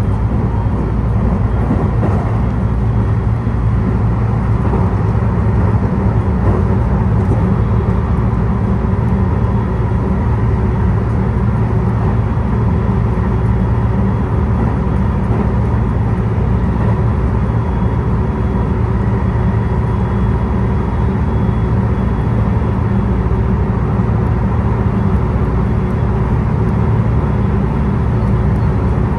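Steady road-vehicle running noise: a continuous low rumble with faint steady tones over it, unchanging throughout.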